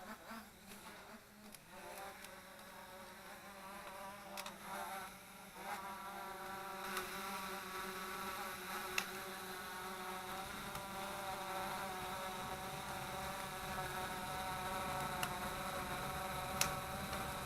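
Small Hubsan quadcopter's propellers buzzing: the pitch wavers at first, then settles into a steady high buzz about five or six seconds in. A few sharp clicks stand out now and then.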